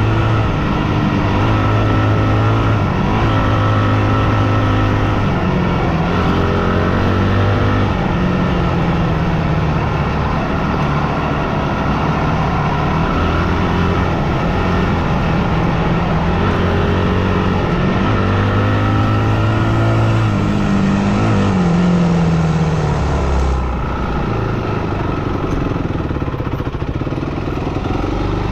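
Yamaha WR250F single-cylinder four-stroke dirt bike engine running under way. Its pitch rises and falls again and again with the throttle, and it gets a little quieter near the end.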